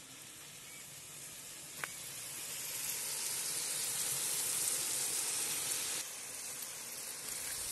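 Pork liver and onions sizzling in hot oil in a cast-iron kazan, a steady frying hiss that grows louder over the first few seconds, with one short click about two seconds in.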